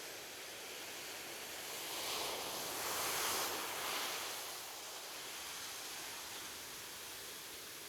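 Ocean waves on a shore: a steady wash of surf, with one wave swelling and breaking about two to four seconds in, then easing back.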